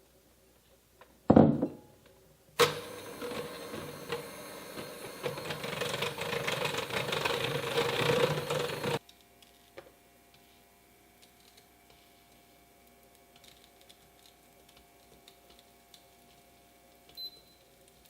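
A thud, then a small electric kitchen appliance motor, blender-like, switched on for about six seconds with a rattling whirr that grows a little louder before cutting off suddenly.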